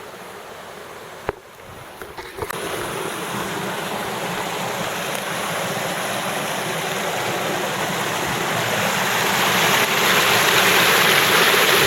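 Creek water rushing through and over a cinder-block dam, the rush growing steadily louder from about two seconds in. A single click sounds about a second in.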